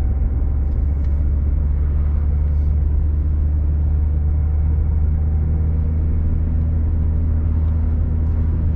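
Steady low drone of a car's engine and tyres heard from inside the cabin while driving at an even speed.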